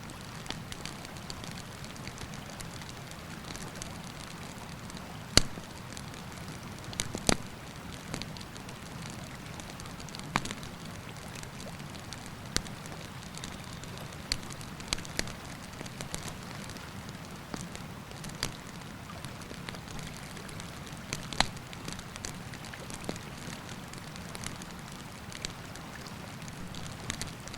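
Wood campfire crackling, with sharp pops every few seconds, the loudest about five and seven seconds in, over a steady rush of river water.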